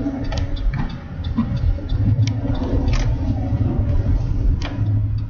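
A truck driving on snowy roads: a steady low engine and road rumble, with scattered sharp clicks at uneven intervals.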